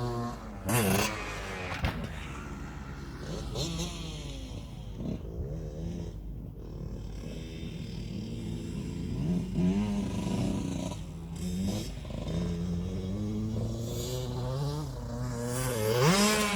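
KTM 65 SX's single-cylinder two-stroke motocross engine revving up and down as it is ridden, its pitch rising and falling repeatedly, with a sharp rising rev near the end.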